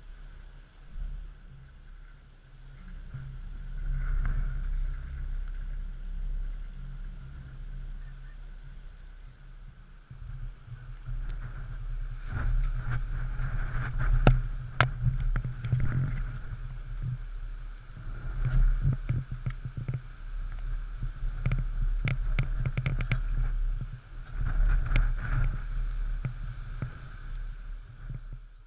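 Typhoon wind buffeting a GoPro's microphone: a low rumble that swells and fades in gusts, loudest in the second half, with scattered sharp clicks and taps among the stronger gusts.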